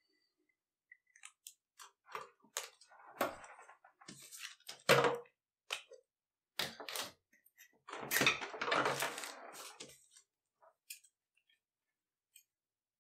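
Irregular handling noises at a table: rustling and crinkling of newspaper and leather offcuts with scattered clicks and knocks of tools being picked up and set down, dying away about ten seconds in.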